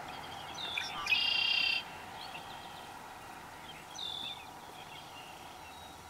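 Songbird singing: a short note, then a loud buzzy trill about a second in, and another short call about four seconds in, over a steady background hiss.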